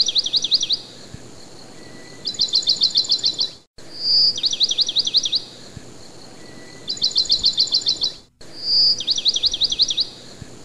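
A songbird singing: a short high whistle followed by a fast trill of down-slurred chirps, about eight a second, repeated as several phrases with gaps between them. The sound cuts out abruptly twice.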